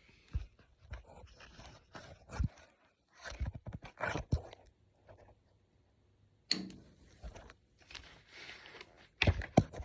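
Hands working the gas control and pilot of a gas water heater: irregular knocks, clicks and rustling, with a few sharp clicks near the end.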